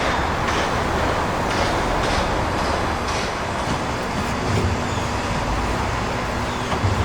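Heavy construction machinery running steadily, a low rumble with a few brief clanks. A steady hum joins about halfway through.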